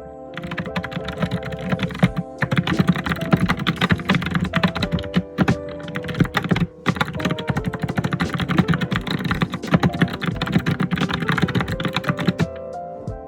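Rapid, continuous typing on a computer keyboard, keystrokes clattering densely with two brief pauses midway, stopping about a second before the end.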